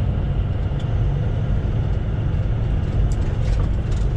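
Semi truck under way: a steady low rumble of engine and road noise.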